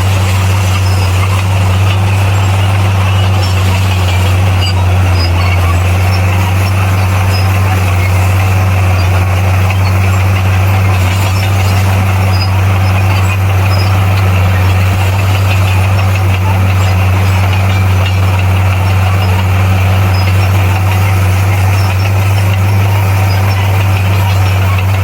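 Bulldozer's diesel engine running steadily under load, a constant low drone that holds the same pitch throughout, with a higher continuous whine above it.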